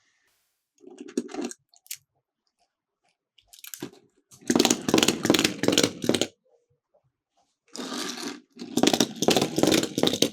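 Small toy cars rolling and clattering down a plastic slope, in several bursts of rattling: a short one about a second in, a longer run from about four to six seconds, and two more near the end.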